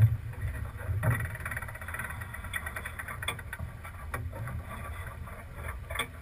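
Sailboat under way, with a steady low rumble of wind on the camera microphone and noise from the water and the boat. Several knocks and clicks from the boat's gear come through; the loudest is a thump right at the start and another comes about a second in.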